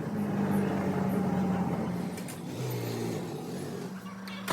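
An engine running steadily with a low hum. Its note shifts about halfway through, then it settles quieter and steadier, with a few light clicks near the end.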